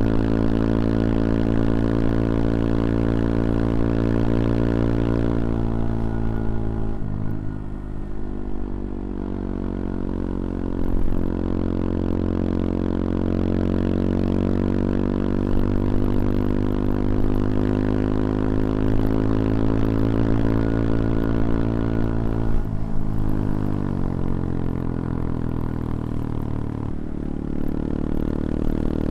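CFMoto Papio XO-1's small single-cylinder engine under way, heard from the rider's seat, its revs climbing slowly. The engine note drops sharply about 7 seconds in, again near 23 seconds and near 27 seconds, then climbs again each time.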